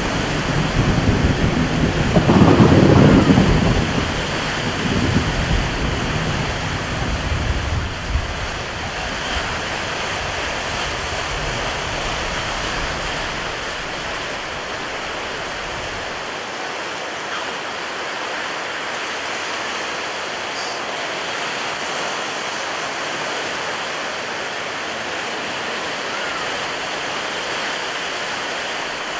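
Thunder rumbling in the first few seconds, loudest about three seconds in and fading away, over the steady rush of stormy ocean surf that continues on its own afterwards.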